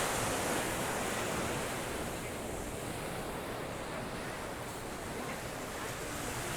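Surf washing onto a sandy beach: a steady rush of waves on the shore, a little louder at the start.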